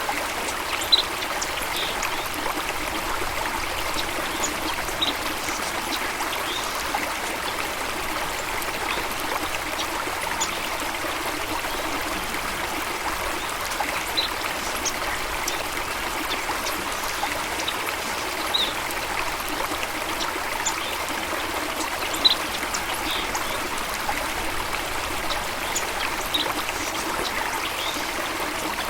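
Water running steadily in a stream, an even rushing sound, with brief high pips standing out every few seconds.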